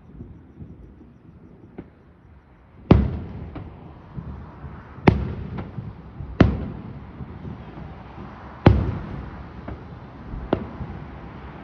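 Fireworks shells bursting: four big booms, each trailing off in a long rolling echo, with several smaller pops between them.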